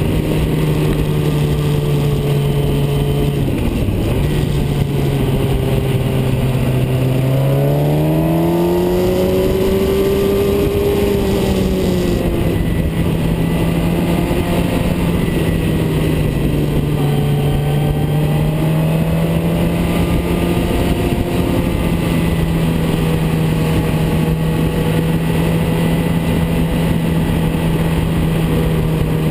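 Car engine running at a steady road speed over wind and tyre noise. About a third of the way in, its pitch climbs smoothly as the car accelerates, then falls back and holds steady.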